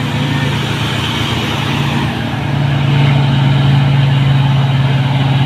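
Heavy diesel truck engines running under load as the trucks climb a hill: a steady deep drone that grows louder about two and a half seconds in.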